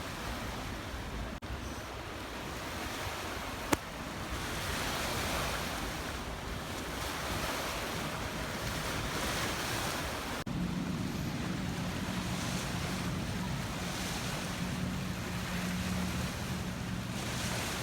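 Wind buffeting the microphone over the wash of water, with a sharp click about four seconds in. After a break about ten seconds in, a steady low hum runs under the wind.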